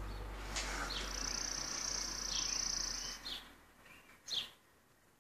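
Small birds chirping a few times over a low steady mechanical hum and a high whine, both of which stop about three seconds in.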